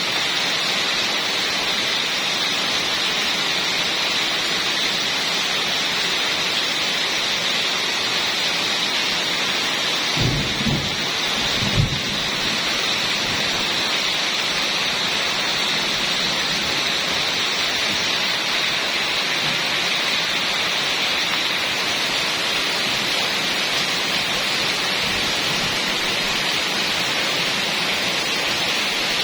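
Heavy rain pouring steadily, with a short low rumble and a few thuds about ten seconds in.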